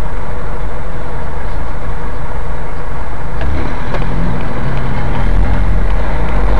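Steady low rumble of a car idling in street traffic, heard from inside the cabin through a dashcam microphone.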